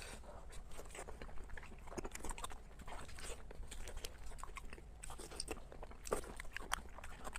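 A person eating close to the microphone: chewing and biting, with many small wet clicks and crunches from the mouth and one louder crunch about six seconds in.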